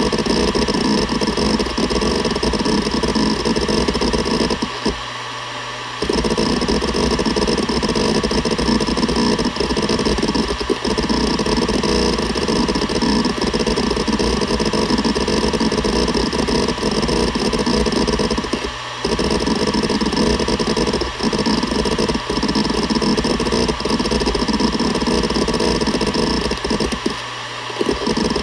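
Seagate Barracuda ES.2 ST31000340NS 7200 rpm hard drive seeking rapidly and continuously, its heads chattering over a steady spindle hum. The seeking stops for a moment about five seconds in, again near twenty seconds and shortly before the end, leaving only the spindle hum.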